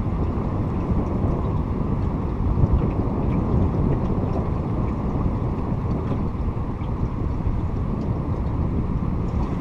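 Steady low rumbling noise aboard a fishing boat on the river, with wind on the microphone.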